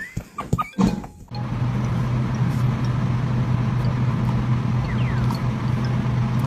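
A few knocks, then from about a second in a steady low hum with a rushing noise, like a running motor or vehicle.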